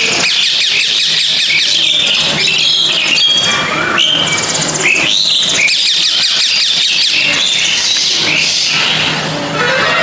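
Parrot chick begging to be fed: shrill, high-pitched calls in rapid repeated strokes, going on almost without pause.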